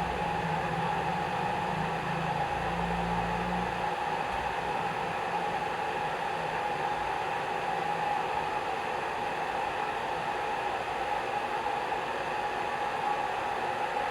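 Hair dryer running steadily: a constant rush of air with a motor whine. A low hum underneath drops away about four seconds in.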